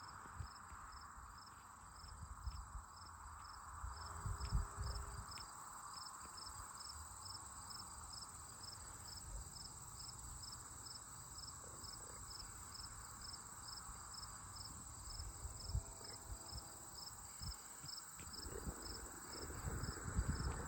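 Crickets chirping steadily, one insect pulsing about twice a second over a constant background hum of others, with faint low rumbles underneath.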